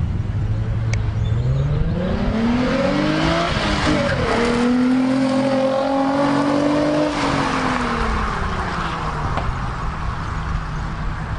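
Nissan 350Z's 3.5-litre V6 pulling away hard: the engine note climbs for a couple of seconds, breaks briefly at a gear change about four seconds in, holds higher, then falls away over the last few seconds.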